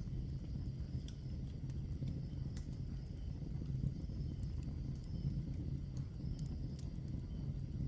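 Log fire burning with a steady low rumble and a few sharp, scattered crackles and pops.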